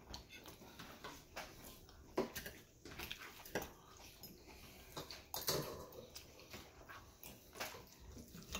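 Close-up eating sounds: chewing a mouthful of lettuce and tomato salad, with scattered sharp clicks of a fork and steak knife against a ceramic plate.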